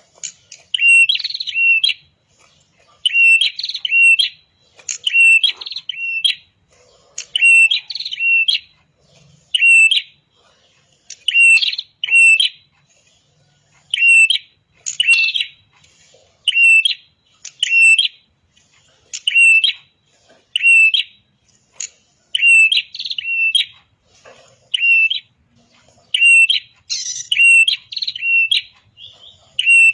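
Prenjak kepala merah (a small Indonesian songbird) singing. Each burst is two or three sharp, high chirps, and the bursts repeat in a steady rhythm about every one and a half to two seconds.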